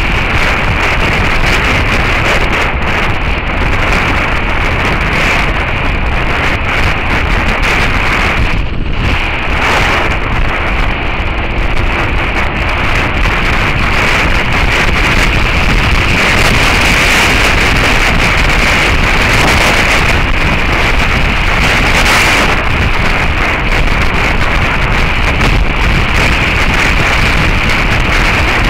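Heavy wind noise buffeting the action camera's microphone on a moving Suzuki SV650S motorcycle, covering the bike's engine, with a brief lull about nine seconds in.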